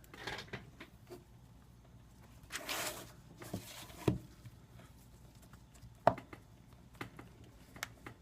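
Hands pressing the replacement glass digitizer down onto an iPad 2's frame to seat it in its adhesive: two short rubbing sounds and a few sharp clicks and taps, the loudest clicks about four and six seconds in.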